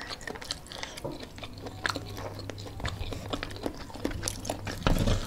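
Close-miked chewing and biting of food, a string of small wet clicks and crunches from mouths working on fried chicken and noodles. A louder burst comes near the end.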